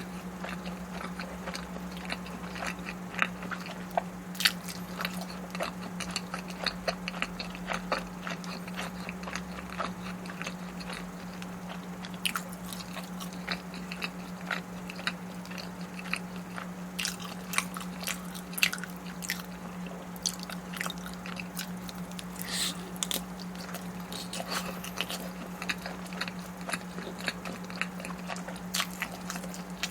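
Close-miked eating: a person biting and chewing food, with scattered short crunches, over a steady low hum.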